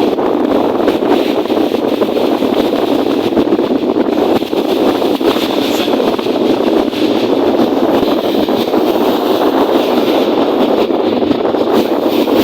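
Steady rushing of strong wind and lake waves, with wind buffeting the microphone.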